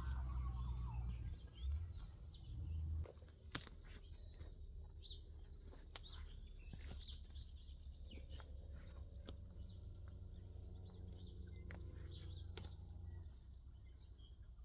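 Wild birds chirping and calling in short, high, scattered notes over a steady low rumble, with a few sharp clicks.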